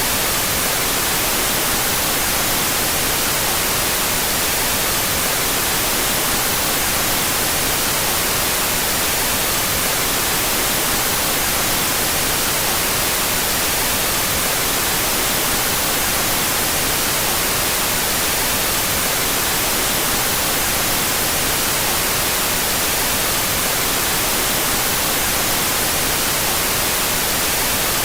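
Steady white noise, an even hiss brightest in the treble, played with its stereo channels out of phase.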